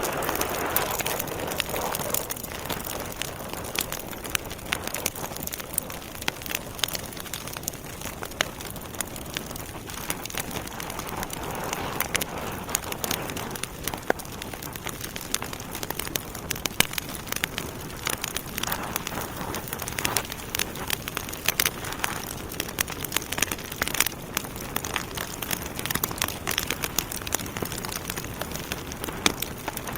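Wood fire burning in a fireplace: logs crackling and popping with irregular sharp snaps over a steady hiss, with a few soft swells of hissing flame, one near the start and another about twelve seconds in.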